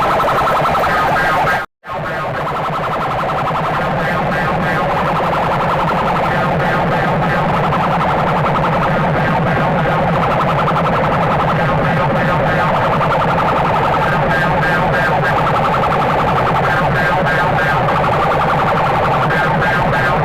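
DJ music with siren-like electronic tones blaring from large loudspeaker sound boxes, heavily distorted and clipped by the overload, with a brief dropout about two seconds in.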